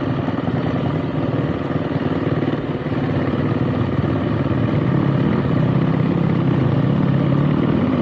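Motorcycle engine running steadily, getting a little louder about halfway through.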